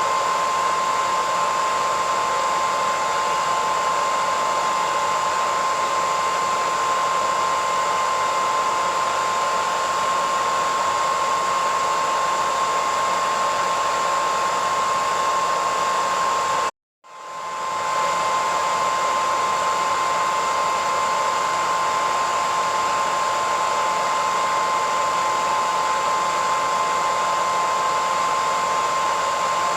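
Hair dryer running steadily, a constant rushing of air with a steady whine. A little past halfway it cuts out for a split second and swells straight back up.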